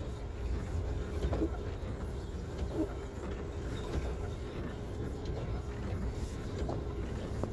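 Steady low rumble of a vehicle in motion, with a faint steady hum and a few short, faint squeaks about every second and a half.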